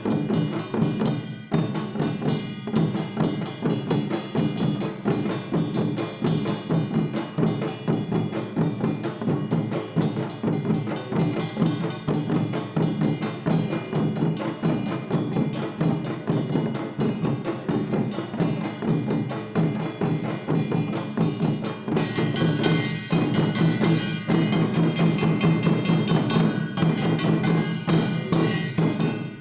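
Korean traditional percussion ensemble (samul nori) of janggu hourglass drum, buk barrel drum, jing gong and kkwaenggwari small gong playing a fast, dense rhythm. About three quarters of the way through, the bright metallic ringing of the gongs grows louder.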